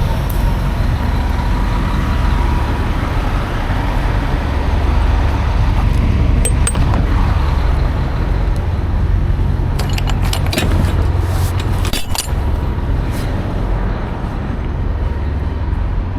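Semi truck's diesel engine running with a steady deep rumble, with a few sharp clicks and knocks around the middle.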